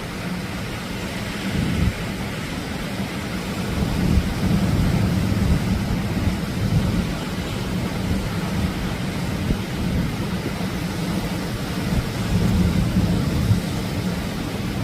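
Atlantic ocean waves breaking and washing on the shore, a steady low-pitched noise that grows louder about four seconds in and swells again near the end.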